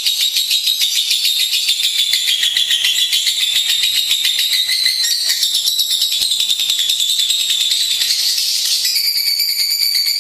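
Lovebird singing a long, rapid, high-pitched chattering trill that runs without a break, its pitch shifting slightly twice.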